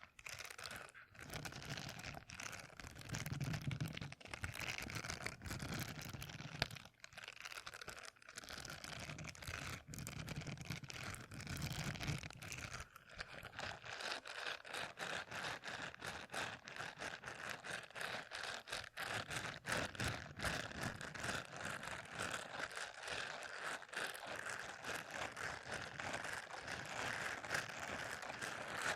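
Close-miked ASMR trigger: a continuous run of rapid small crackles and scratches.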